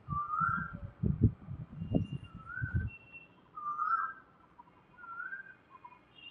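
A bird calling repeatedly: four short whistled notes, each rising, about every one and a half to two seconds, over irregular low rumbles.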